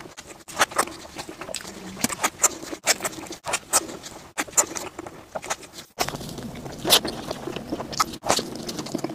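Close-miked chewing and wet mouth smacks from eating soft dessert buns, the first filled with purple rice. There are short sharp smacks about twice a second, and the background changes about six seconds in.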